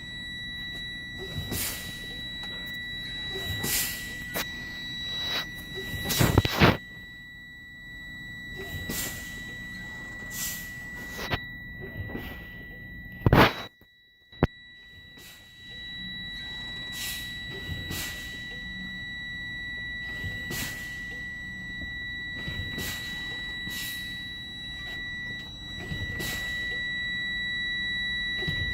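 The truck's low-air warning buzzer sounds a steady high tone throughout. Over it come repeated short bursts of air as the brake pedal is pumped, exhausting air from the tanks during the tractor protection valve test. The loudest bursts come about six and thirteen seconds in.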